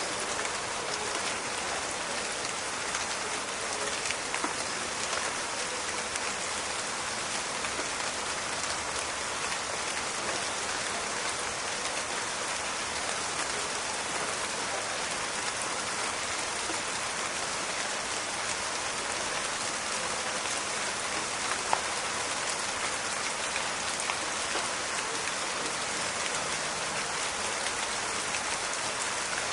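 Steady rain falling in a forest, an even hiss of drops with a few louder single drop ticks, one sharper tick about two-thirds of the way through.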